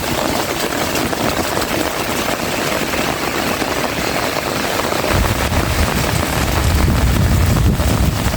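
Heavy rain falling steadily, with a deep irregular rumble joining it about five seconds in.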